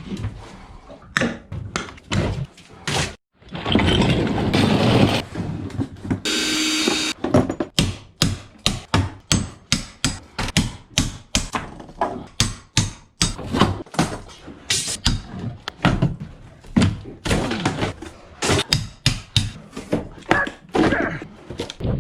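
Hand demolition of a boat's interior: a fast, irregular run of knocks, thuds and whacks, with a couple of longer, noisy ripping and scraping stretches in the first third.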